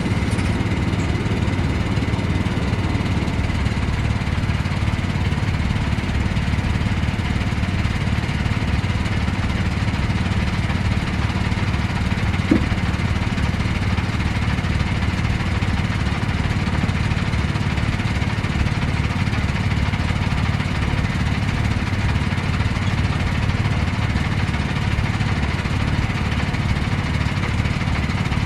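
An engine running steadily at an even speed, with a single short tick about twelve seconds in.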